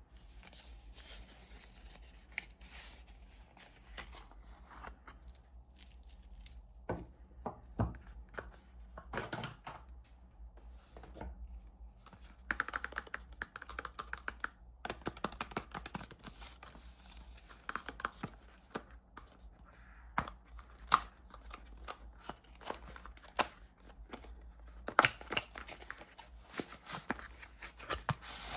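Soap packaging being torn open and crinkled by hand, in irregular rips and rustles with sharp taps and clicks between them.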